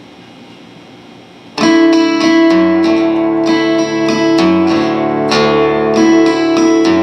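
Plucked string music, guitar-like, starting abruptly about a second and a half in after quiet room tone, with ringing sustained notes, repeated plucks and a low note that shifts every second or so.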